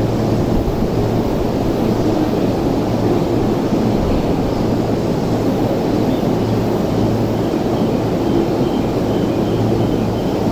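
Steady rumble of a train moving along a station platform, with a low hum underneath.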